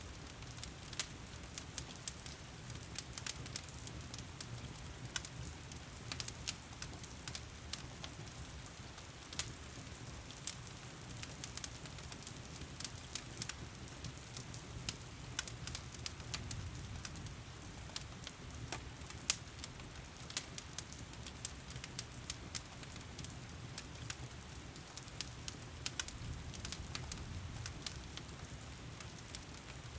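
A fire in a fireplace crackling with frequent sharp pops over a low steady rush, layered with heavy rain falling as a continuous hiss.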